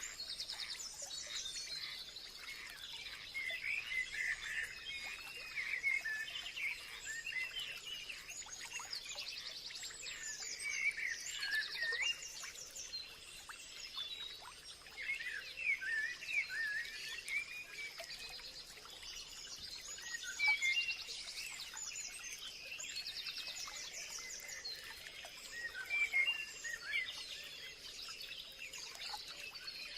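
Several birds chirping and singing in overlapping short calls and trills, with a faint steady high-pitched tone underneath.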